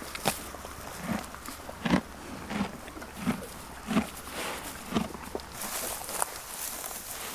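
Horse walking: dull hoof thuds, one about every 0.7 seconds, with lighter clicks between them. A hissing rustle comes in over the last couple of seconds.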